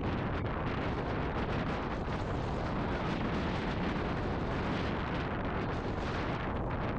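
Heavy wind buffeting on a helmet or chest camera's microphone as a mountain bike rides down a trail, a steady, dense rumble with faint rattles from the bike running over rough ground.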